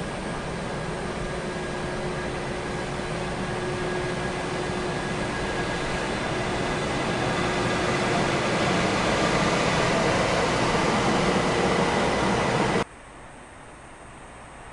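Shinkansen high-speed train pulling away and picking up speed: a steady rush of running noise with faint motor tones that grows gradually louder. It cuts off suddenly about 13 seconds in, leaving a much quieter background hum.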